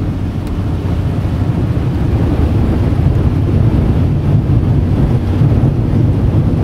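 Car driving, a loud steady low rumble of engine and road noise with wind buffeting the microphone.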